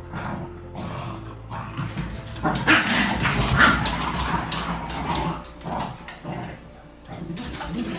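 A dog whimpering and making short vocal sounds, louder and busier from about two and a half to four seconds in.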